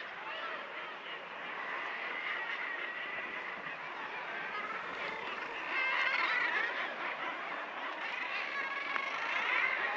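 Wild birds singing and calling over one another, a dense chorus of short high chirps and warbles that grows louder about halfway through.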